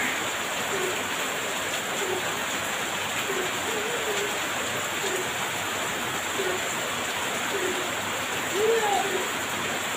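Heavy rain falling steadily. Under it, a short low call repeats roughly once a second.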